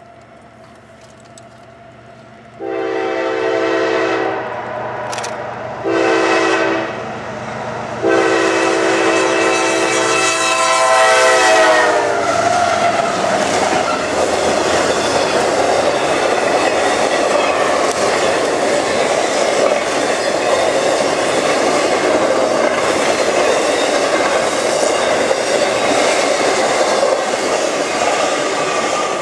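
Freight locomotive's multi-chime air horn sounds three blasts, long, short and long, the last sliding down in pitch as the locomotive passes. Then comes the steady rumble and clatter of an intermodal piggyback train's cars rolling by close.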